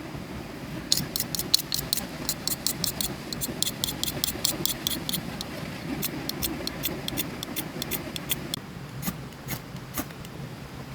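Quick, irregular crackling clicks that thin out to a few near the end, over a steady rush of flowing water.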